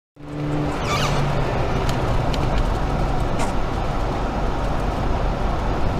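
Car driving: steady engine and road noise with a low hum, starting abruptly and broken by a few short clicks.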